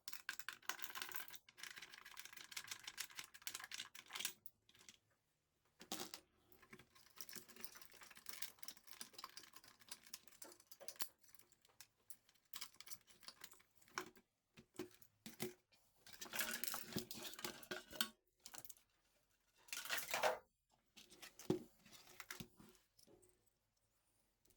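Faint, irregular clicking, tapping and rustling of small objects being handled, in uneven bursts with short pauses.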